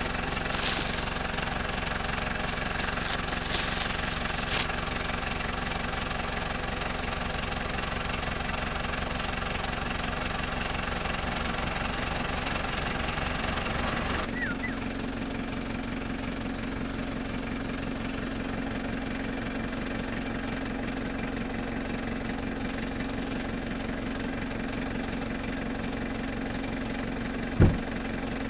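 Motor vehicle engine running steadily, its tone changing abruptly about halfway through, with a single short knock near the end.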